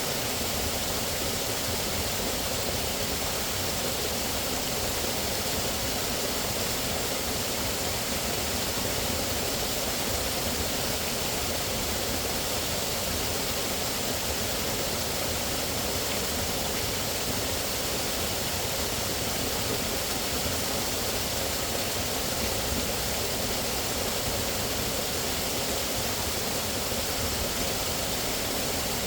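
Steady rushing water, an even hiss with no separate splashes or other events.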